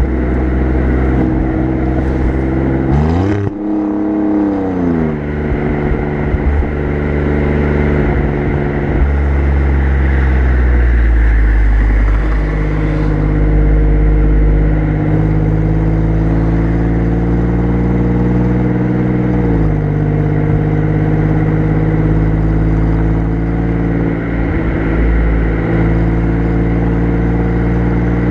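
Exhaust of an Alfa Romeo Giulia Quadrifoglio's twin-turbo V6, heard close at the rear bumper, running at a steady cruise. About three seconds in the engine note rises sharply and falls back over a couple of seconds, and near two-thirds of the way through the pitch drops suddenly, then holds steady again.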